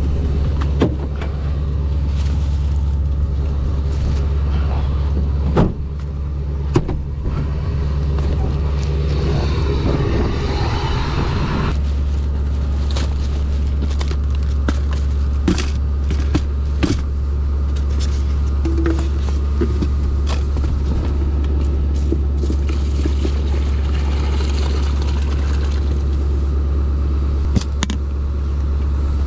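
Pickup truck cabin while driving: a steady low drone of engine and road noise, with scattered clicks and knocks.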